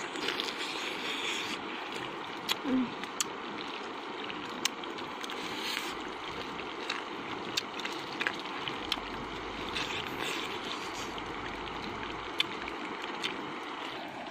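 Scattered sharp crunches and clicks of chewing grilled pig ear cartilage, over a steady background hiss.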